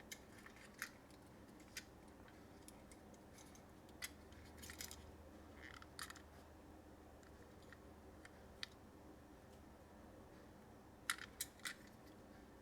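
Faint, scattered clicks and small knocks of small toy cars being handled, with a quick cluster of clicks near the end; otherwise near silence.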